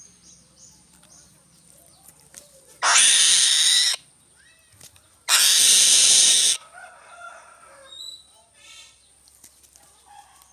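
Two loud, harsh screeches from an eagle (bird of prey), each lasting about a second, the second a little longer, with faint small bird chirps around them.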